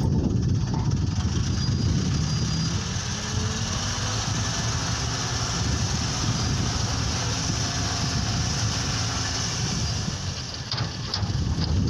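Toyota Dyna dump truck's engine running steadily, with a steady hiss over it and a few faint clicks near the end.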